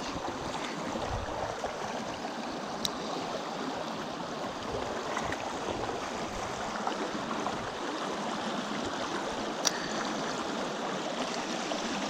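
Small mountain stream running steadily over rocks, with two sharp clicks, one about three seconds in and one near ten seconds.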